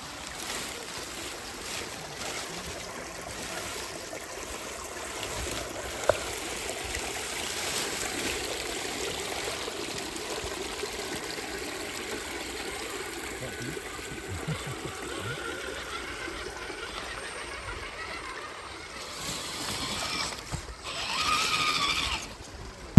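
Stream water trickling and flowing steadily, with a single sharp click about six seconds in.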